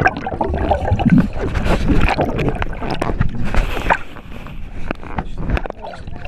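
Water splashing and sloshing around a boat, with wind buffeting the microphone and irregular knocks.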